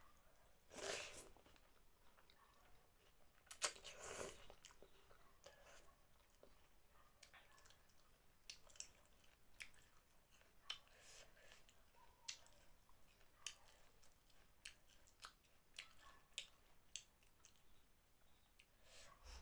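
Close-up chewing and mouth sounds of someone eating thukpa noodle soup and a fried potato chop by hand: many small wet clicks and smacks throughout. There are two longer, louder sounds about a second in and about four seconds in.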